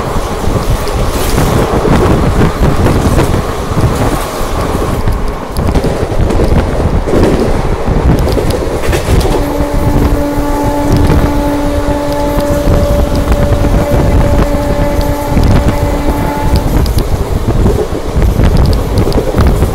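Wind and rail rumble at the open window of a moving Indian passenger train, with another train's coaches rushing past on the next track at the start. From about nine seconds in, a steady chord of several notes sounds for about seven seconds over the noise.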